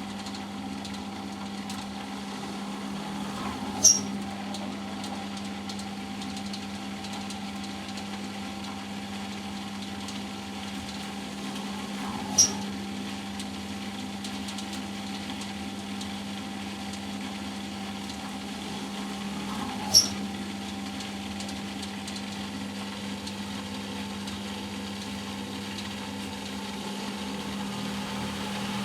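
Eudora Sparmeister 702 washing machine in its second intermediate spin: a steady motor hum, with three sharp clicks about eight seconds apart, growing slightly louder near the end.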